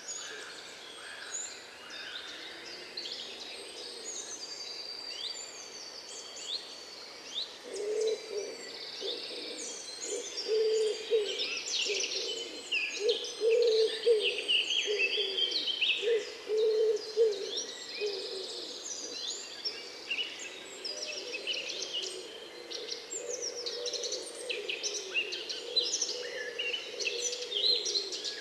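Many songbirds singing and calling together in a dense chorus of chirps and trills. From about eight seconds in, a low hooting call repeats in short runs for around ten seconds.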